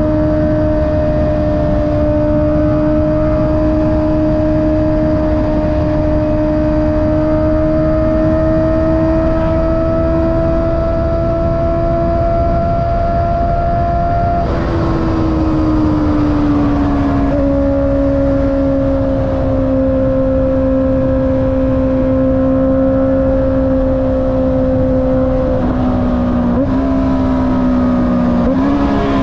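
Honda CB650R's inline-four running through an Akrapovic exhaust while riding at a steady speed. About halfway the engine note drops in pitch and settles lower, with small changes near the end, over a steady rush of wind.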